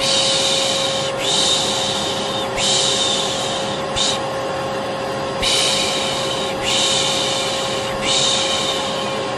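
Vacuum cleaner running steadily with a constant motor hum, while a voice shushes over it in long 'shhh' sounds, three in a row and then a short one, repeating. It is white noise and shushing used to soothe a baby to sleep.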